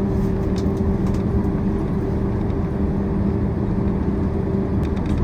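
Steady engine and cabin noise heard inside a Boeing 767-400ER's passenger cabin as it taxis, a constant hum with a low drone under it and a few faint rattles from the cabin.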